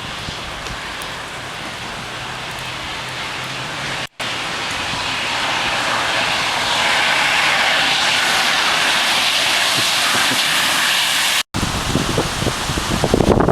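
Steady rushing hiss of rain and wet outdoor air, growing louder over several seconds, broken by two brief cuts. In the last couple of seconds, gusty wind buffets the microphone.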